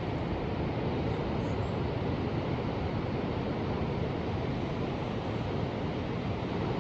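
Ocean surf: a steady, even rush of waves with no single break standing out.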